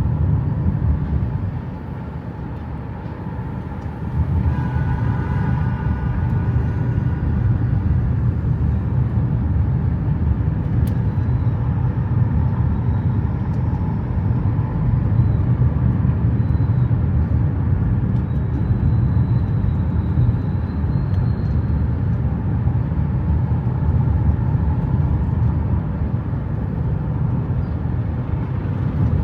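Steady low rumble of a moving vehicle, road and engine noise, with a short higher-pitched tone a few seconds in.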